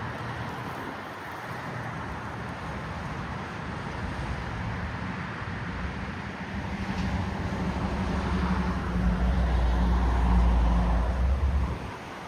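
Outdoor city traffic noise with wind on the microphone. A low engine-like rumble builds from about seven seconds in, is loudest around ten seconds, and cuts off sharply shortly before the end.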